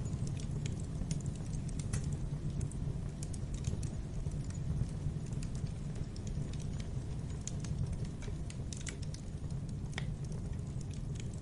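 Wood fire in a fireplace burning, with a steady low rumble of flames and frequent irregular crackles and pops.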